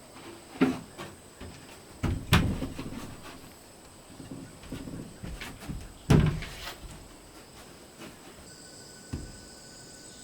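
Sharp wooden knocks and clatter as pieces of wood are handled and set against each other. There are about four distinct knocks, the loudest about two and six seconds in, with lighter rattling between them.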